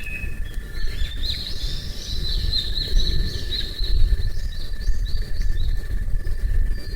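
Small birds chirping in a quick run of short calls, over a low rumble of wind on the microphone and a faint steady high tone.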